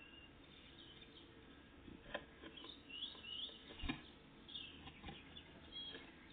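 Songbirds chirping faintly: short high calls and a few quick gliding notes, with several soft knocks, the loudest about four seconds in.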